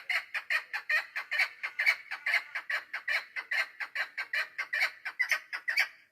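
Female chukar partridge calling: a fast, even run of short clucking notes, about five a second, that stops abruptly near the end.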